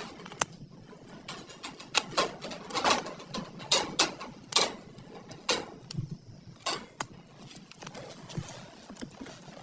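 Irregular sharp clicks and knocks, roughly one or two a second, some louder and ringing briefly.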